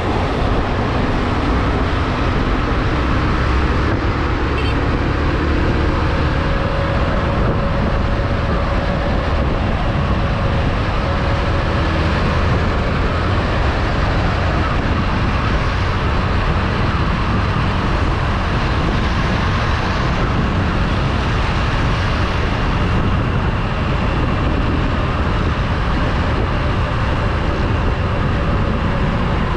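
Motorcycle riding on the road: a steady rush of wind and road noise, with the engine's hum beneath that shifts slightly in pitch.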